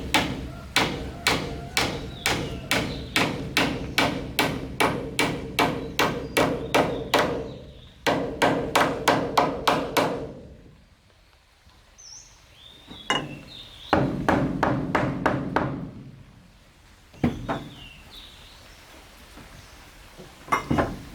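Hammer blows on wood in a fast, even rhythm of about two or three a second, each with a short ringing note. The blows stop about ten seconds in, a second run follows a few seconds later, and a couple of single blows come near the end.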